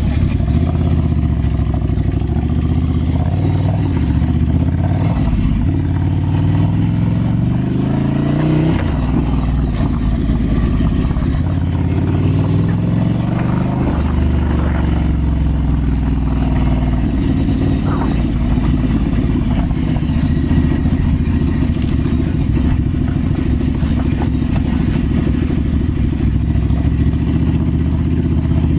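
Ducati Scrambler's air-cooled L-twin engine under way, pulling through the gears: the revs climb twice, dropping back in between at a gear change, then hold steady at a cruise.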